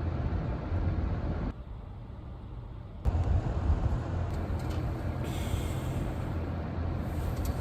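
Steady low rumbling background noise with no speech. It drops abruptly to a quieter stretch about a second and a half in, then returns about three seconds in.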